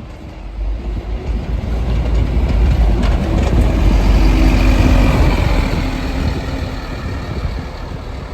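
Scania OmniCity bus driving past with its engine running, growing louder to a peak about four to five seconds in and then fading away.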